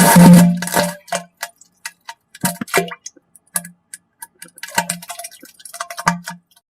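A loud buzzy fart at the start, followed by a string of short wet splutters and clicks with brief low blurts, like diarrhea sputtering.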